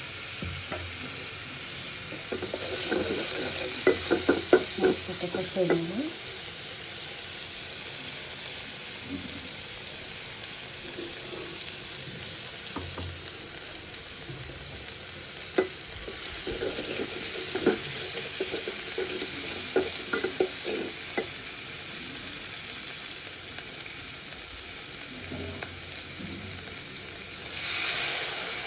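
Curry masala frying in oil in an aluminium pot, sizzling steadily, while a wooden spatula stirs and scrapes against the pot. The scraping knocks come in clusters a few seconds in and again past the middle, and the sizzle swells briefly near the end.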